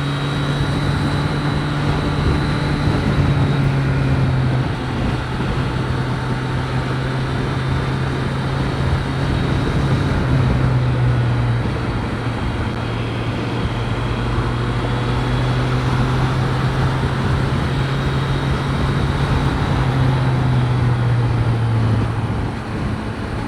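Triumph Street Triple 765 RS inline-three engine running at a steady highway cruise, with wind and road noise, heard from a microphone inside the rider's helmet. The engine note holds nearly even, with small shifts in pitch.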